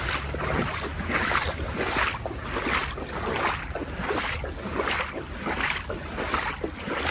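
Legs wading through knee-deep floodwater: a rhythmic swish and slosh with each stride, about three strides every two seconds.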